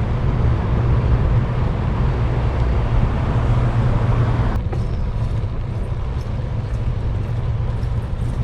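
Steady low rumble of wind on the microphone of a moving bicycle, with street traffic around it. About halfway through, the higher hiss cuts off suddenly, leaving mostly the low rumble.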